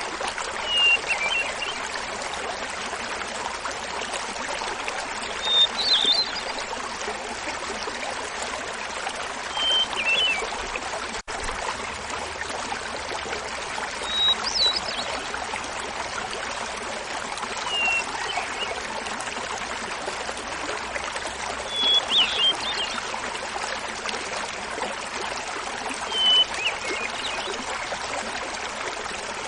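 Small mountain waterfall babbling steadily, with a hermit thrush singing over it: a flute-like phrase about every four seconds, each opening on a held note and alternating between a higher and a lower pitch. The sound drops out for a moment about eleven seconds in.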